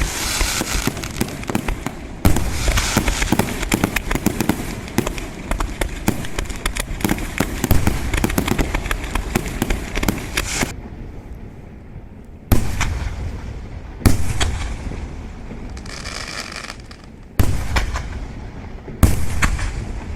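Fireworks display: dense rapid crackling and popping of shells bursting for the first ten seconds or so, then it thins out to a few single loud bangs a second or two apart, with a brief whistle shortly before the last two bangs.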